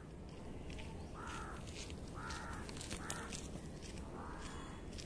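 A bird calling with four short harsh caws, about a second apart, over a steady low rumble.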